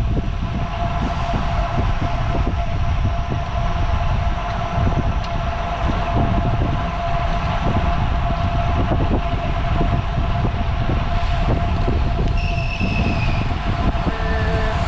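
Riding sounds of a road bicycle on the move: steady wind rumble on the microphone and tyre noise, with a thin steady whine throughout and a short falling whistle about twelve seconds in.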